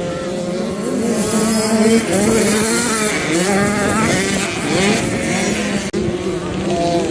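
Several motocross bikes running on the track at once, their engines revving up and down at different pitches over one another.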